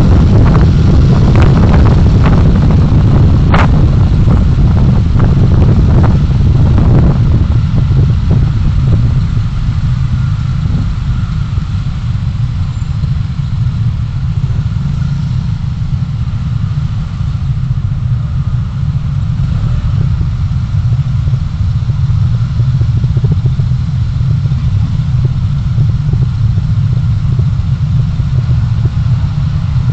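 Steady low rumble of a car driving, road and engine noise as picked up by a dashcam. Many short knocks and rattles come in the first several seconds, with one sharp click about three and a half seconds in.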